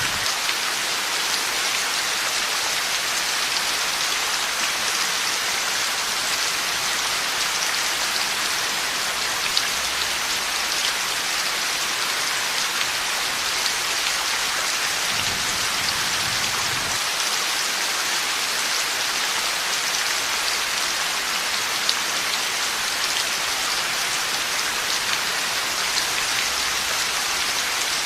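Heavy rain falling steadily, a dense hiss with scattered louder drop ticks, and a faint low rumble about halfway through.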